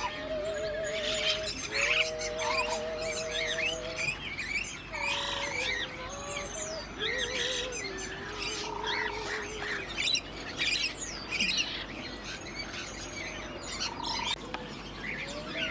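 A mix of aviary birds chirping, tweeting and squawking, with several long wavering whistled notes among the calls.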